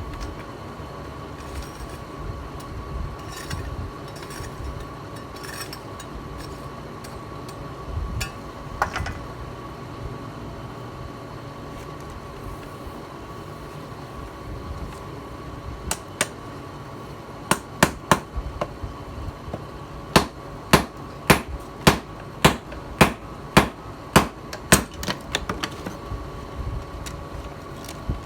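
Hammer blows forging a steel knife blank from a tiller blade. A few scattered knocks come first, then after about two-thirds of the way in a run of sharp, evenly spaced strikes, roughly one and a half a second. A steady hum runs underneath.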